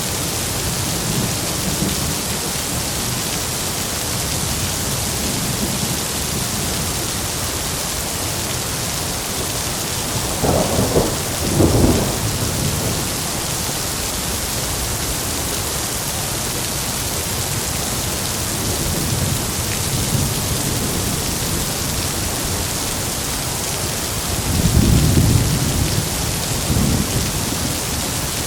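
Heavy rain falling steadily, with thunder rumbling: two short cracks about ten seconds in, and a longer low rumble near the end.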